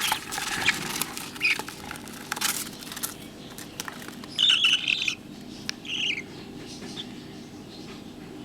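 Budgerigar chicks in the nest: scratching and rustling for the first few seconds, then a few short raspy chirps, the loudest near the middle.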